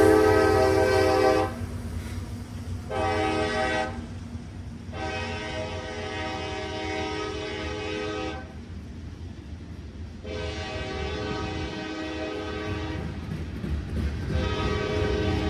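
Diesel freight locomotive's multi-note air horn sounding a series of blasts: the loudest cuts off about a second and a half in, a short blast follows, then three longer ones. A low engine and rail rumble runs underneath as the train approaches.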